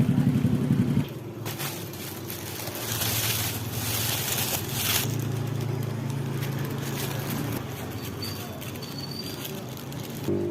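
A motorcycle engine running, which cuts off about a second in. It is followed by a rustling hiss and a few faint high chirps near the end.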